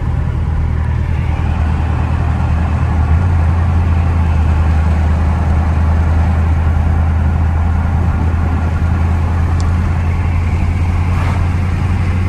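Dodge Scat Pack's V8 running at a steady drone under road and wind noise while the car is moving. The drone shifts slightly about three seconds in.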